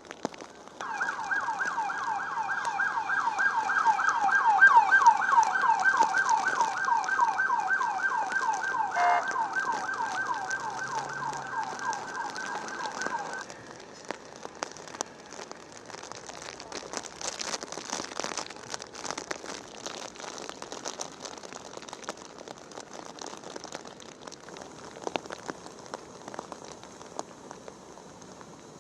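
Emergency vehicle siren in a fast yelp, rapid rising-and-falling whoops repeated several times a second, which cuts off about thirteen seconds in. Afterwards, steady rain patters with scattered small ticks.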